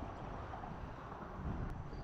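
Wind rumbling on the microphone, with a slight gust about a second and a half in.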